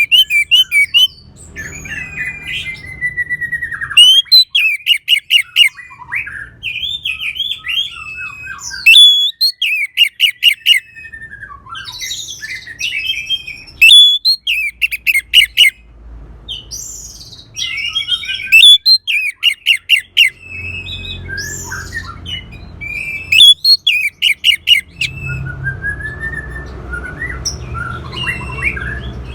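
Orange-headed thrush singing a long, varied song. Every few seconds it breaks into loud bursts of rapid repeated notes, with gliding and warbled phrases in between.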